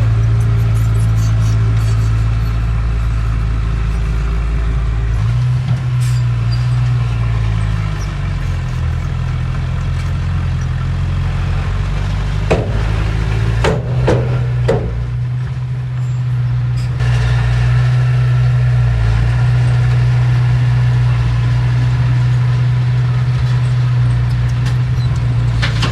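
Heavy diesel engine of earthmoving machinery running steadily, its pitch shifting a few times, with a short run of sharp metallic clanks about halfway through.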